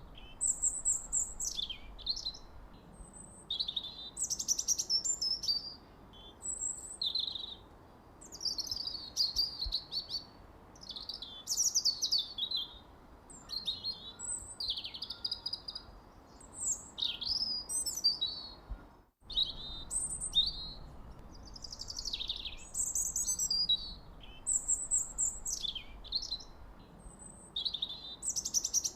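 Songbirds chirping and singing in quick, high phrases, one after another with short gaps, over a faint steady hiss. The sound cuts out for an instant about nineteen seconds in.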